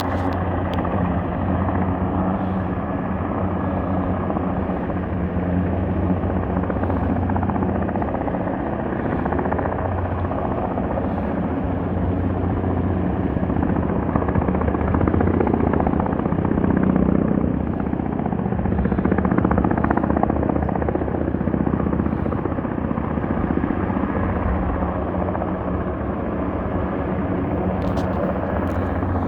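Erickson S-64 Air Crane heavy-lift helicopter running steadily, its rotor and turbine noise growing a little louder midway and then easing back.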